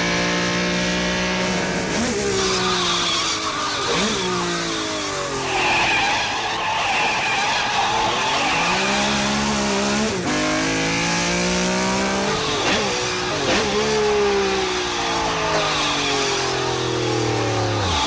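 A Ferrari's engine heard from inside the cabin, revving up and dropping back again and again as it works through the gears on tight turns, with the tyres squealing at times.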